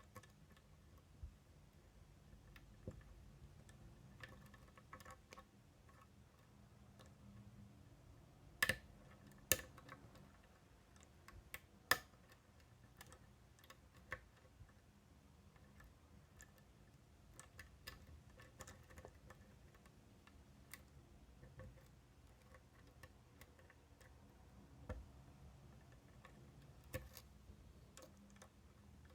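Faint, irregular ticking and scraping of lock picks working the ten wafers of a Miwa DS lock, with a few sharper clicks around nine and twelve seconds in and again near the end.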